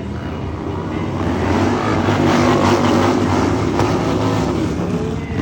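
Harley-Davidson motorcycle engine running loud, building up in revs about a second and a half in and easing off again near the end.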